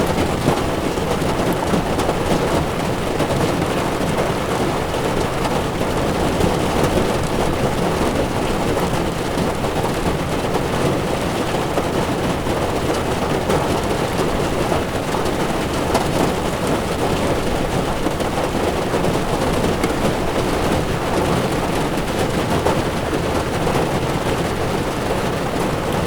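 Heavy rain pattering steadily on a car's windshield and body, with tyres hissing on a wet road and a low road rumble underneath.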